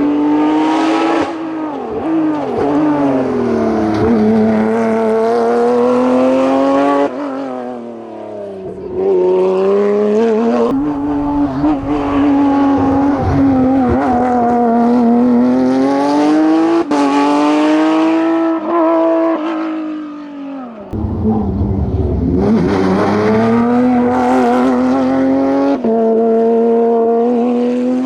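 Racing car engine driven flat out, revving hard through the gears. The note rises and falls repeatedly, with several abrupt gear changes.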